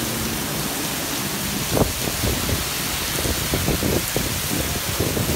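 Heavy rain falling, a steady hiss, with irregular low thuds and splashes starting a little under two seconds in.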